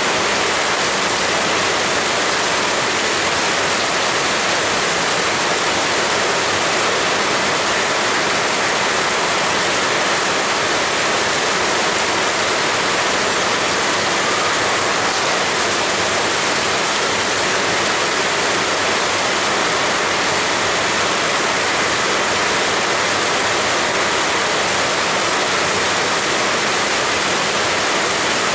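Heavy rain falling in a steady, dense hiss, with no let-up or single drops standing out.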